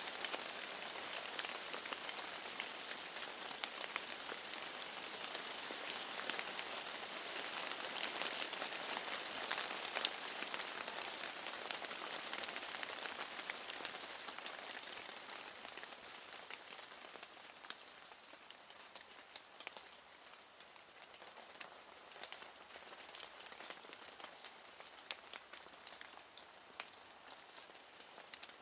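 Steady rain with many separate drops tapping against a window pane, growing quieter from about halfway through.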